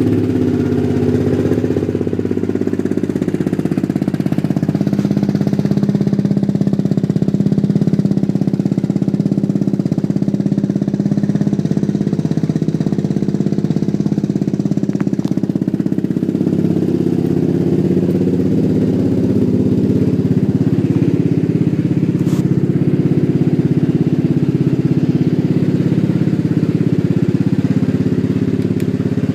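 Yamaha X-City 125 scooter's single-cylinder four-stroke engine idling steadily through an aftermarket sport exhaust.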